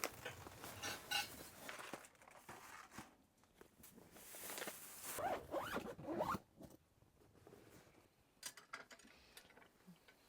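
A zipper being pulled, one long zip about four seconds in, among rustling and small handling clicks.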